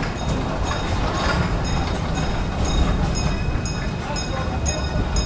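Steady low rumble of a riding passenger train car rolling on the track, with a railroad crossing signal bell starting to ding about a second and a half in, a little over two strikes a second.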